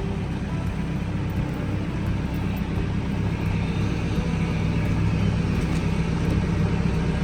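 Tractor engine running steadily while towing a chicken coop on a chain, a low even hum that gets slightly louder about halfway through.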